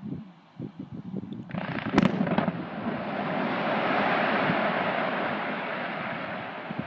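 Quarry rock blast: two sharp cracks about two seconds in, followed by a long rolling rumble that swells and then slowly fades.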